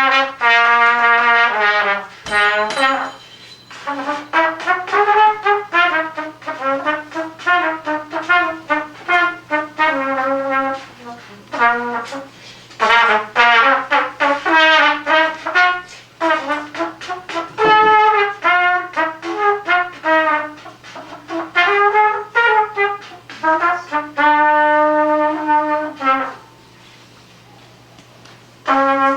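Unaccompanied trumpet playing improvised melodic phrases, one note at a time, with short breaths between phrases and a longer pause near the end.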